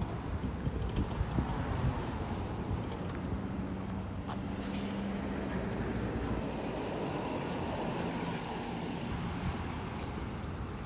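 Mercedes-Benz S600's 5.5-litre twin-turbo V12 idling steadily, a low even hum.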